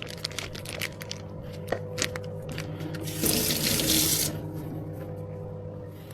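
A water tap runs for about a second in the middle, amid scattered clinks and clicks of cups and utensils over a steady low hum.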